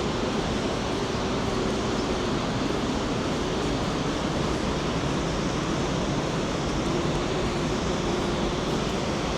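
Steady, loud rushing roar of the Rhine Falls' water, with a faint low hum coming and going underneath.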